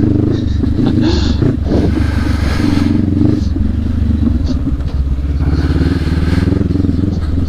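Adventure motorcycle engine running steadily while riding a dirt trail.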